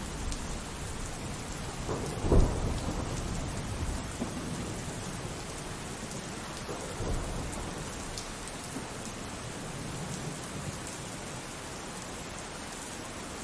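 Steady rainfall with thunder: a sharp, loud thunderclap about two seconds in, then lower rumbles under the rain.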